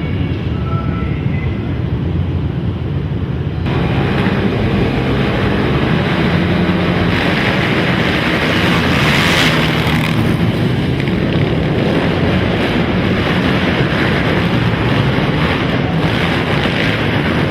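Several racing quad engines running hard together, loud and steady, with a rough noisy wash that gets louder and fuller about four seconds in.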